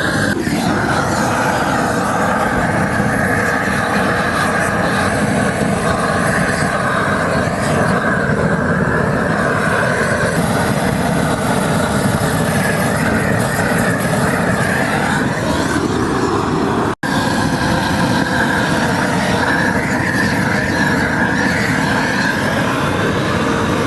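A machine's engine running steadily and loudly, its pitch shifting slightly about two-thirds of the way through, with a brief cut-out near the end.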